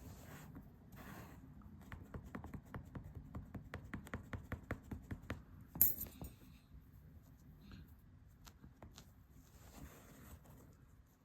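A quick, even run of light clicks, about six a second for three or four seconds, then one sharp, louder click with a brief metallic ring.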